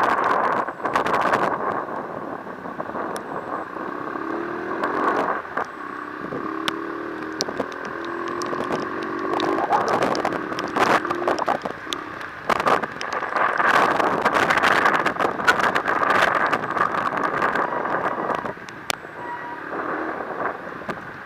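Road vehicle noise in light to moderate rain, picked up by an action camera's built-in microphone: a steady hiss full of sharp ticks and knocks, with a low pitched hum for several seconds in the middle.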